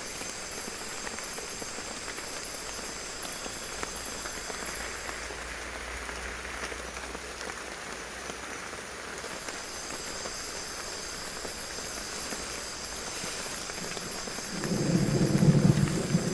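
Steady heavy rain falling, with a low rumble of thunder building near the end.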